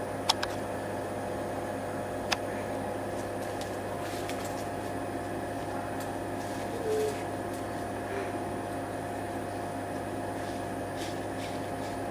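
CNC spring-making machine running with a steady mechanical hum, with a couple of sharp clicks near the start and a short tone about halfway through.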